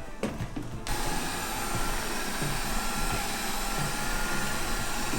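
Alfawise V8S Pro robot vacuum running: a steady rush of its suction fan and brushes with a faint whine, cutting in abruptly about a second in.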